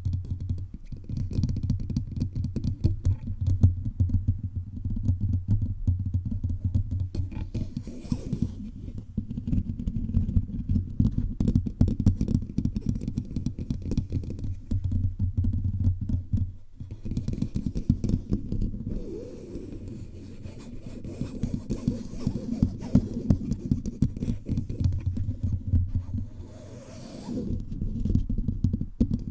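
Fingertips tapping rapidly all over a bare microphone's body: a dense run of dull, bass-heavy taps, with a short break a little past halfway.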